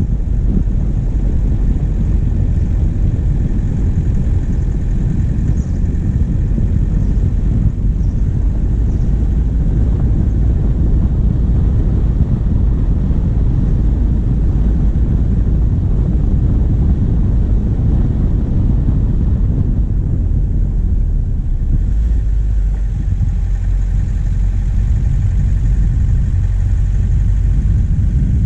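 Diesel vehicle driving at a steady pace, its engine's low rumble mixed with road noise, picked up by a camera mounted on the bonnet.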